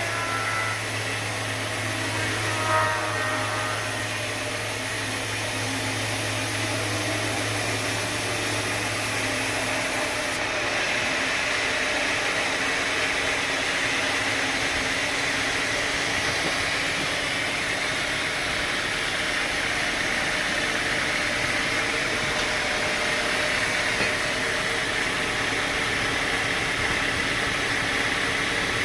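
Sawmill machinery running with a steady mechanical noise; a low hum drops out and the sound changes abruptly about ten seconds in.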